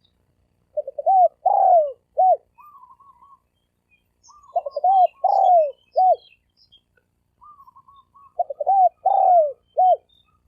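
Spotted dove with a deep 'thổ sấm' voice cooing: three phrases of several coos each, about four seconds apart, with a quieter wavering note between the phrases.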